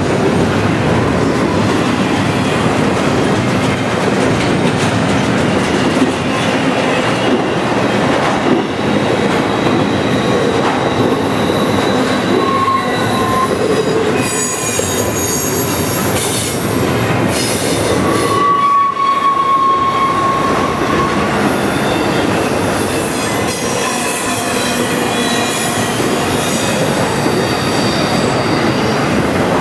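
Double-stack intermodal freight cars rolling past at close range with a steady, loud wheel-on-rail noise. Wheel flange squeal rises on the curve, with a high squeal about halfway through and a steadier, lower squeal a few seconds later.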